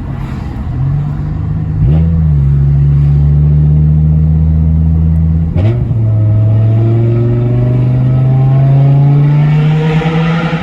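BMW M6 E64 convertible's 5.0-litre V10 under throttle. The revs change sharply about two seconds in and again about five and a half seconds in, then the engine note climbs steadily as the car accelerates.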